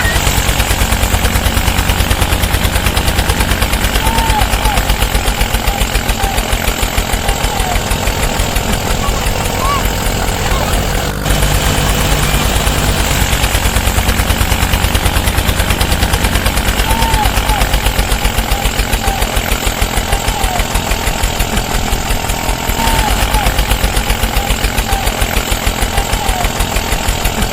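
Mini tractor engine running steadily with a fast, even thudding beat, as in a tractor tug-of-war.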